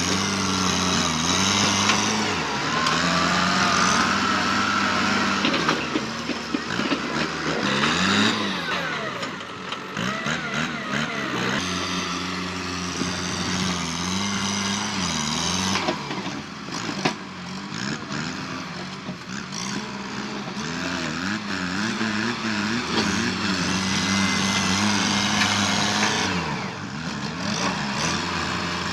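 Kubota tractor's diesel engine working under load while pushing through bush, its pitch repeatedly dipping and recovering as it bogs and picks back up.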